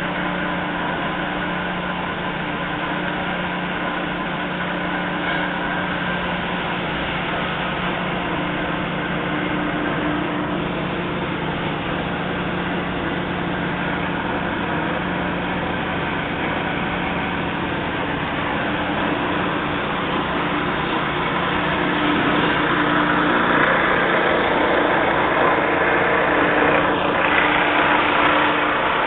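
An automatic car wash running with a steady mechanical hum and hiss as a car enters it. The noise grows louder and brighter about two-thirds of the way in.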